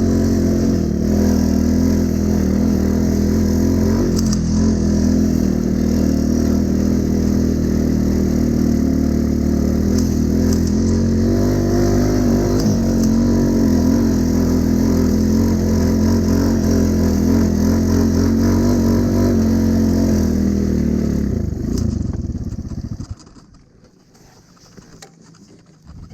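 Honda Cub motorcycle's small single-cylinder four-stroke engine running steadily under way, then dying away near the end.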